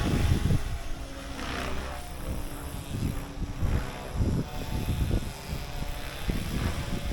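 RC helicopter in flight: a faint steady drone from its rotors and motor, under uneven low rumbling.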